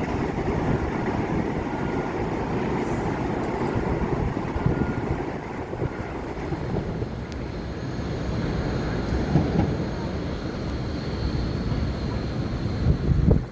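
A New York City Subway (1) train running on the elevated steel viaduct at 125 Street: a steady noise of wheels on rails, heaviest in the low end, with faint thin tones above it.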